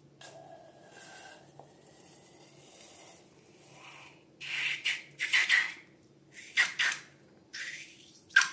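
Slime being squeezed and worked by hand: faint rubbing at first, then about five short, louder squishes in the second half.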